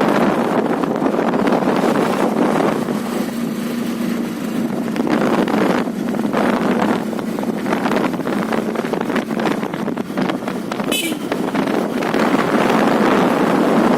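Motorcycle on the move: wind rushing over the microphone, with the engine's steady hum underneath.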